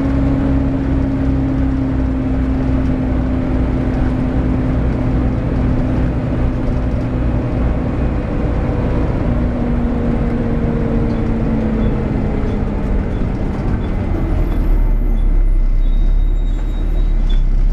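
Volvo B7TL double-decker bus's engine running with the loud, vacuum-cleaner-like whine of its cooling fan, the 'hoover'. The whine slowly falls in pitch, and about three-quarters of the way through a deep low rumble takes over as the higher sound thins out.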